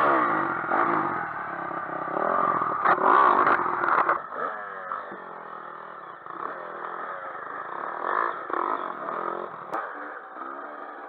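Dirt-bike engines revving, the pitch climbing and falling with the throttle. The sound is loud for the first four seconds, then cuts abruptly to quieter, more distant revving.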